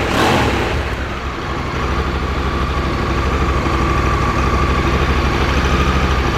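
Honda Africa Twin 1100's two-cylinder engine and exhaust just after starting: a brief rise in revs at the start dies away, and it settles into a steady, even idle.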